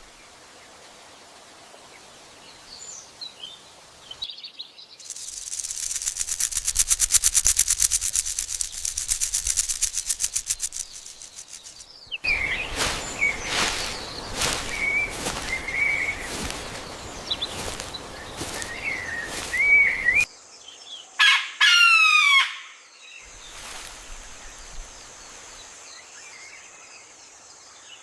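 Bird sounds in abrupt sections: a few faint chirps, then a fast, high-pitched rattle for several seconds, then a run of chirping calls, and a short loud call made of falling notes, before only faint ambience remains.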